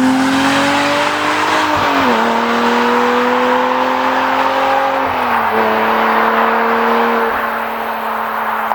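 Porsche 987 Mk2 Boxster's flat-six engine through a CARGRAPHIC sport rear silencer with exhaust flaps, running under way. Its note drops sharply at two gear changes, about two and five seconds in, then holds steady.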